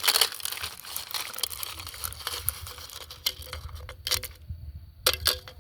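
Small rocks rattling and clattering as they tip out of the base of a jar-type chick feeder used as a bee feeder, a dense run of clicks followed by a few separate knocks near the end.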